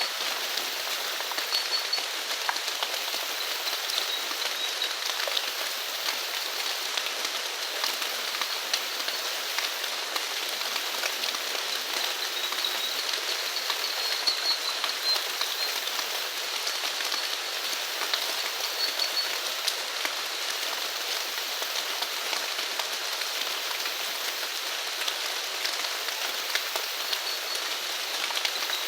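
Steady rain falling, a continuous patter of many small drop ticks. Faint high-pitched chirps come in now and then over it.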